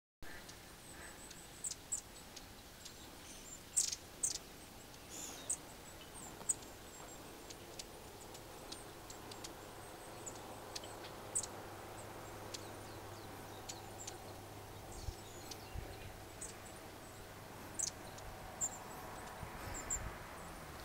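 Long-tailed tits calling: many short, very high, thin calls scattered irregularly, over a faint steady background hum.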